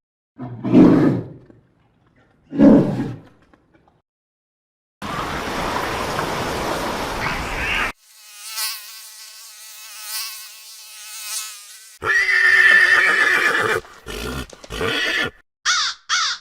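A string of separate animal calls cut one after another: two loud calls about a second apart near the start, a stretch of hissing noise, a thin high tone, a bright call, then short calls repeated about twice a second near the end.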